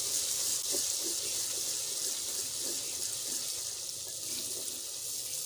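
Onions, garlic and green chillies frying in ghee in a clay handi, giving a steady sizzle, while a wooden spoon stirs and scrapes through the masala.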